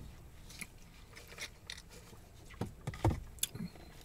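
Quiet eating sounds: chewing and small wet mouth clicks, with a couple of short, louder low throat sounds about two and a half and three seconds in.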